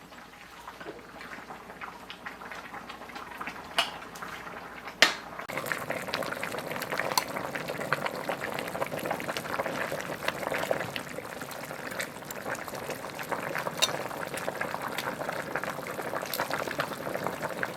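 Food cooking in a pot, bubbling with a fine crackle. There is a sharp knock about five seconds in, after which the bubbling is louder and steadier.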